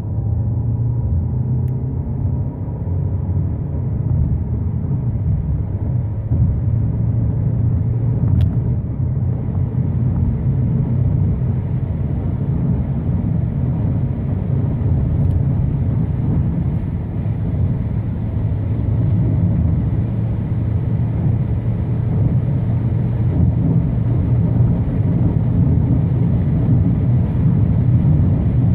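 In-cabin sound of a VW Passat B8's 2.0 TDI diesel engine pulling under full acceleration through the DSG gearbox, a steady low drone mixed with tyre and wind noise that builds with speed, with one upshift along the way.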